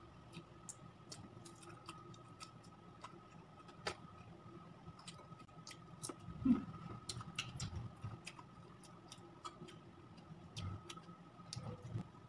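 Close-up eating sounds: irregular small mouth clicks and smacks from chewing dried fish and rice, with soft clicks of fingers picking at food on the plate. One short, louder low sound about halfway through, over a faint steady background tone.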